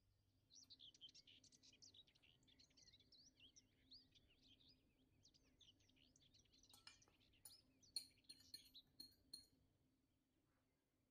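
Faint birdsong: a busy run of quick, high chirps and twitters that fades out near the end, with a few sharp clicks in the last few seconds of it.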